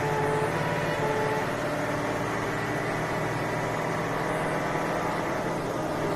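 British emergency vehicle running with its two-tone horn, sounding a lower and a higher note in turn, each about half a second long. The horn stops about a second and a half in, and the engine keeps running steadily.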